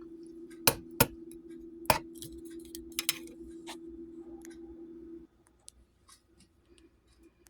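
A few sharp clicks and clinks of cookware being handled, over a steady low hum that cuts off about five seconds in.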